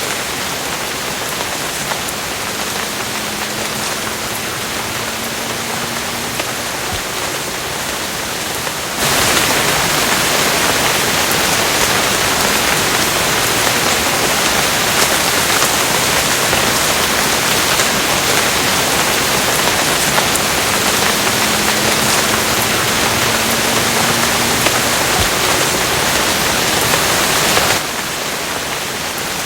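Steady rain falling, an even hiss. It turns suddenly louder and heavier about nine seconds in and drops back just as suddenly near the end.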